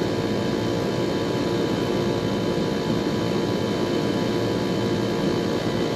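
Rooftop air-conditioning unit running: a steady drone from its condenser fan and compressor, with a constant hum of several steady tones.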